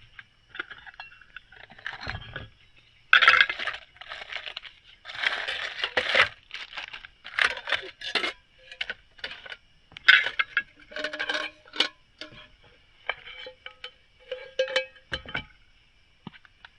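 Small hard objects clinking and rattling, metallic-sounding, in an irregular string of short knocks and scrapes.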